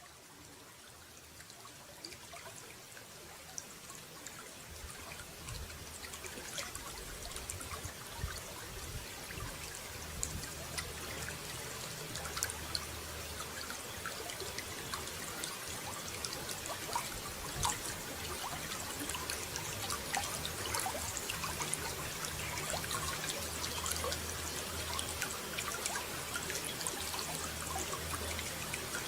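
Running water trickling and splashing, with many small droplet ticks. It fades in over the first several seconds, then runs steadily.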